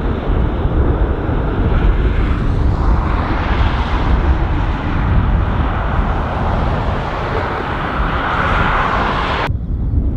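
Jet engine noise of an American Airlines Boeing 777-200ER taking off: a steady rumbling roar that swells from about three seconds in, with wind on the microphone. The sound cuts off abruptly shortly before the end.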